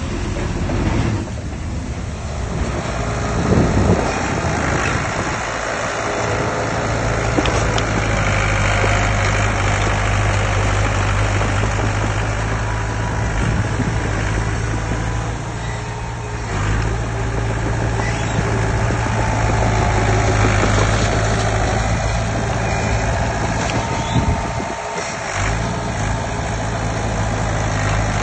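Heavy diesel engine of earthmoving machinery running steadily, its deep hum dropping away briefly a few seconds before the end.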